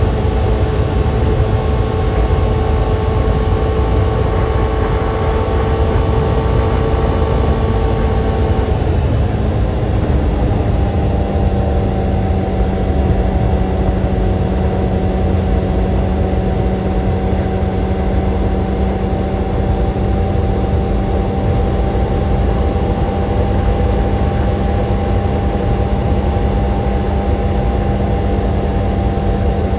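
Kawasaki sport motorcycle engine running at a steady speed under a heavy low wind rumble. About nine seconds in, the engine note drops to a lower pitch and holds steady.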